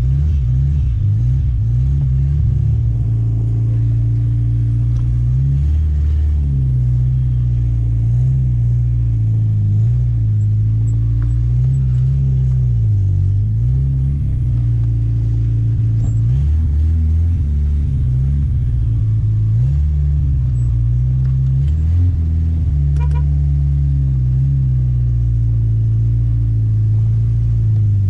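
Turbocharged Chevrolet Chevette four-cylinder engine running, its speed wavering, dipping and picking back up several times.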